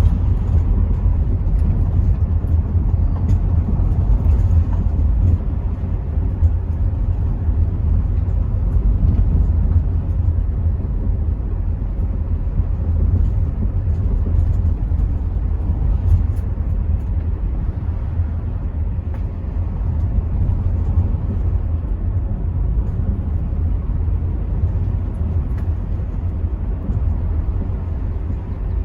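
Rover 75 V6 estate heard from inside the cabin while driving: a steady, loud low rumble of road noise and wind buffeting through part-open windows, with the engine running underneath.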